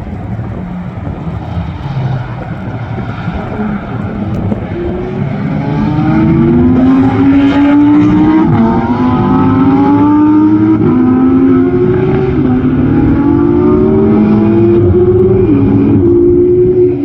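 Supercar engine accelerating hard. Its note climbs and drops back several times as it shifts up through the gears, and it gets much louder about six seconds in.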